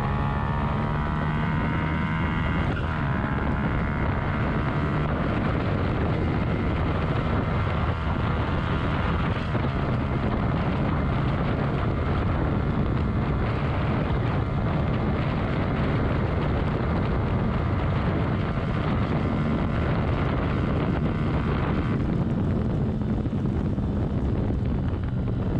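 Yamaha YZF-R125's 125cc single-cylinder four-stroke engine pulling up through the revs for the first few seconds, then holding a steady cruise and easing off near the end, with wind rushing across the microphone.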